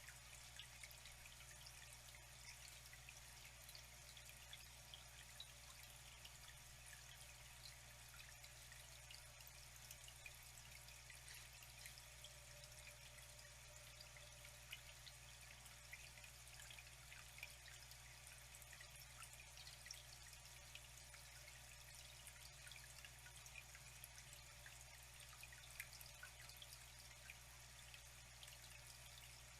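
Faint flowing water: a steady trickle with many small drips and splashes.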